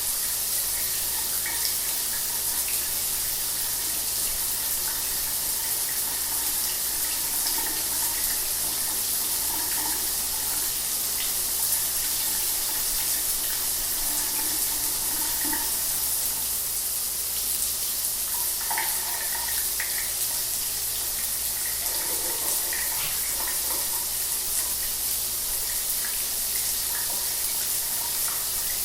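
Shower water running steadily, an even hiss of spray with small splashes scattered through it.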